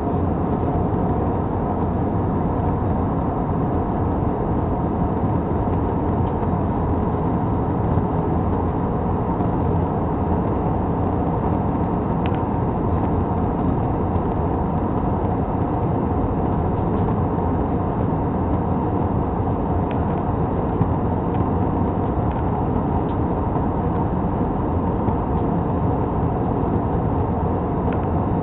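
Steady engine and airflow noise heard inside an airliner's cabin in flight, an even rushing hum with a faint steady tone in it. A few faint clicks come through about midway and later.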